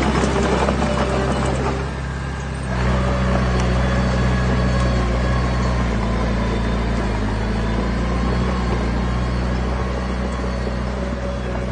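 Diesel engine of heavy earthmoving equipment running steadily. It grows louder and fuller about three seconds in.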